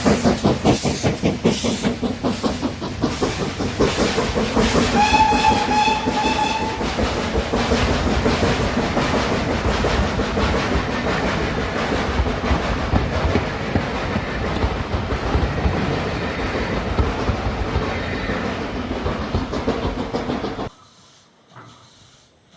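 Steam locomotive working hard, with a quick run of rapid exhaust beats, then a short whistle blast of about two seconds. Its running rumble follows and cuts off suddenly near the end.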